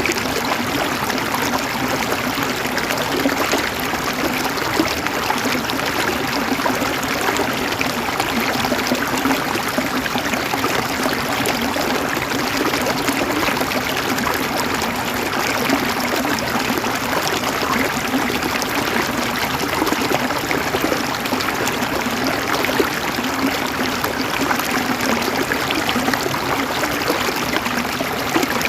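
River water flowing and splashing over rocks: a steady, even rush with fine bubbling detail.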